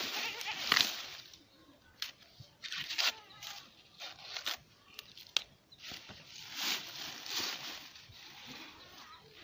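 Maize leaves rustling and crunching in irregular bursts, with a few sharp snaps.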